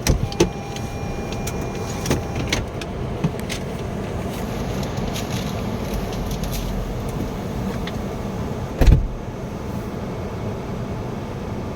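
Car rolling slowly with steady engine and road noise. There are a few clicks and a faint steady tone in the first couple of seconds, and one loud thump about nine seconds in.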